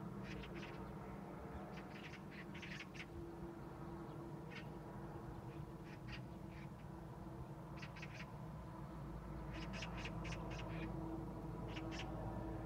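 Harsh bird calls, each a quick cluster of short rasping notes, repeated several times over a steady low hum.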